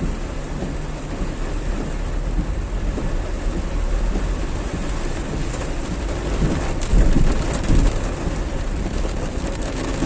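Heavy rain pouring down steadily, with a deep low rumble underneath that swells twice, about seven and eight seconds in.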